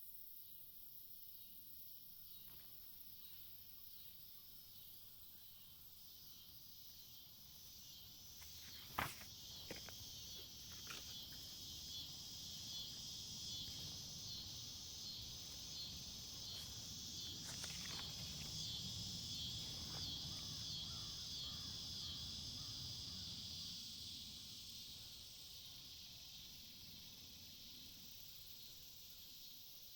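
Insects chirping in a steady, rhythmic pulsing chorus that swells about eight seconds in and fades again near the end. A single sharp click comes about nine seconds in, with a few fainter ticks after it.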